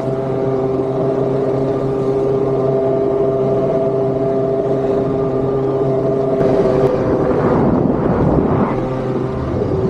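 Motosurf (motorized surfboard) engine running at a steady throttle, its pitch wavering for a couple of seconds near the end before it settles again.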